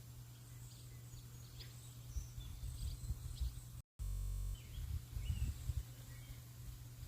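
Birds chirping faintly in short, scattered calls over a steady hiss of rain and irregular low rumbling thumps. About four seconds in the sound cuts out for an instant, then a brief steady hum follows, an edit splice.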